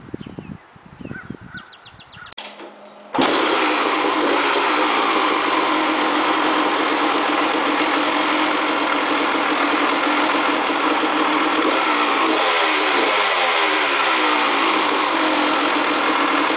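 A 1986 Honda CR250's single-cylinder two-stroke engine being kicked over: a few thumps, then it fires about three seconds in and keeps running loudly and steadily.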